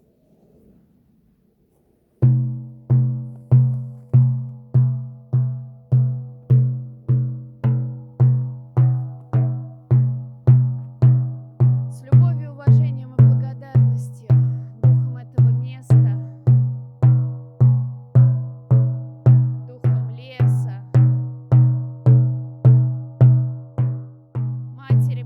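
A frame drum (buben) beaten in a steady, even pulse, about one deep, booming stroke every 0.6 seconds, starting about two seconds in. Each stroke rings with a low tone and fades before the next.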